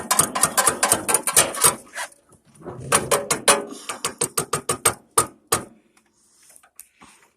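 Rapid metal-on-metal tapping: a rock used as a makeshift hammer, knocking a part onto the tractor's starter. A quick run of strikes, about seven a second, a short pause, then another run that slows to a few single knocks.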